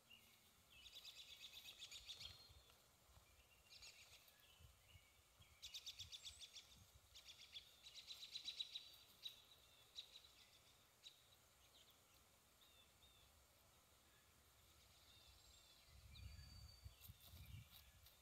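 Songbirds singing faintly: several rapid trills of about a second each, with scattered short chirps between them. A low rumbling noise comes in near the end.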